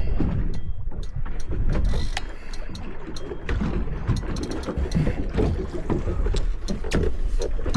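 Wind and water noise aboard a small boat at sea, a dense low rumble, with scattered sharp clicks throughout.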